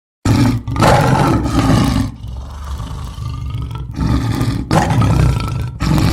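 A large animal roaring: loud, deep roars with a quieter rumbling stretch between them, starting suddenly about a quarter second in.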